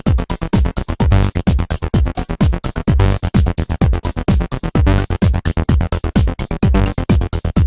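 Electronic music from two Behringer TD-3-MO bass synthesizers playing the same bassline in unison, a steady sequence of short repeated notes, over drum-machine beats from a Roland JD-Xi with deep, regular kick hits. The synths are heard dry, without effects or processing.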